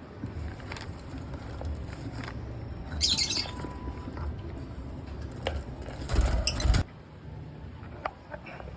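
African lovebirds in a cage: scattered small clicks and rustles, a short high chirping burst about three seconds in, and a louder flurry of wing flapping lasting under a second, a little past the middle.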